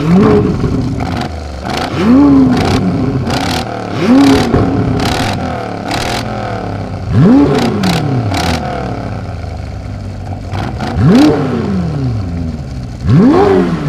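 Car engine revving in repeated blips, about six of them, each rising quickly in pitch and falling away. Sharp exhaust pops and crackles come between the revs in the middle stretch.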